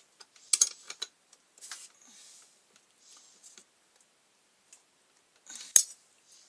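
Sharp metallic clicks and clinks of a ring spanner and mower blade fittings being handled as the blade is refitted: a cluster about half a second in, faint ticks after it, then one loud click near the end.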